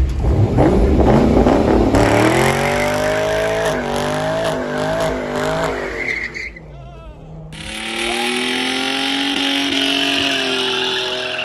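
Car doing a burnout: the engine revs hard while the tires squeal and skid. The sound drops away briefly about six and a half seconds in, then a second burst of revving and squealing follows.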